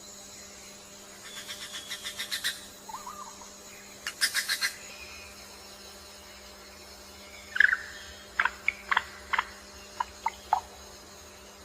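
Bird calls: a quick series of rapid notes, a short rattling burst, then a run of separate sharp chirps near the end.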